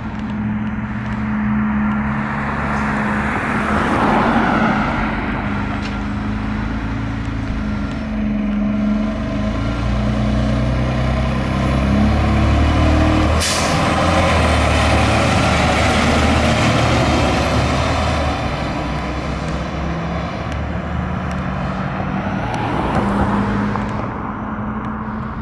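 A 2021 Pierce Enforcer fire engine's diesel engine runs under load as the truck moves off, with a loud, steady low drone. About halfway through there is a sharp hiss from an air brake.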